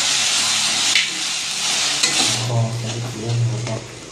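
Ginger-garlic paste sizzling in hot oil with fried onions in a kadai as it is stirred with a spatula. The sizzle is loud for about two seconds and then eases off as the paste is mixed in, with a couple of sharp scrapes of the spatula against the pan.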